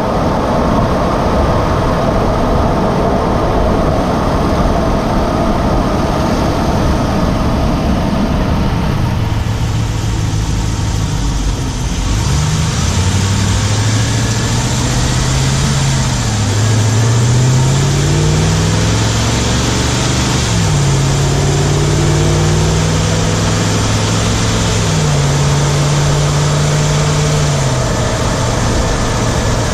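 2017 Ram 1500's Hemi V8 running while the truck is driven, heard from inside the driver's-side engine bay with wind and road noise. In the second half the engine note rises and falls with the revs, with sudden drops in pitch. The owner is chasing a ticking under it, which he suspects is the Hemi tick or something else.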